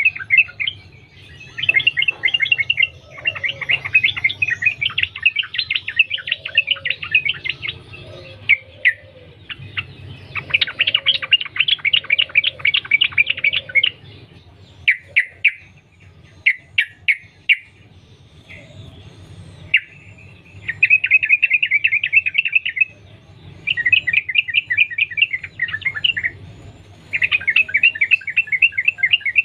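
Yellow-vented bulbul (trucukan) singing in long, rapid chattering runs of notes, phrase after phrase with short breaks between, as in a continuous "sambung ropel" song.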